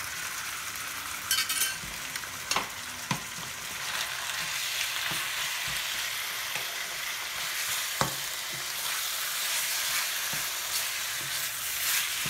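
Soy-and-oyster-marinated chicken sizzling on high heat in a stainless-steel wok, stirred with a wooden spatula, with a few sharp knocks of the spatula against the wok.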